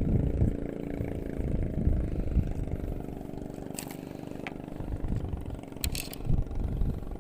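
A motor runs steadily with an even hum, with a few low knocks and two or three short sharp clicks about halfway through.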